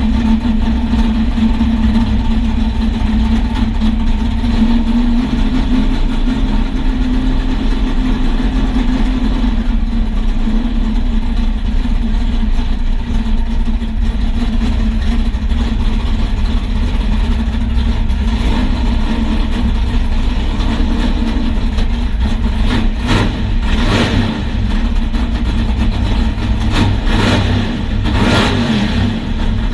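A vehicle engine running loudly with a steady drone and low rumble, then a few short, louder surges over the last several seconds.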